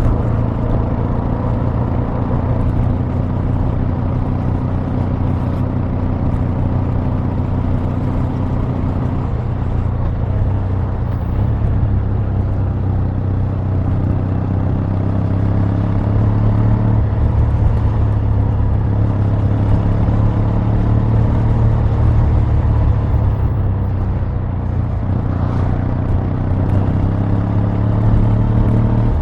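Kawasaki W800's air-cooled parallel-twin engine and exhaust running steadily, a low, even note that shifts slightly in pitch about ten seconds in and grows a little louder partway through.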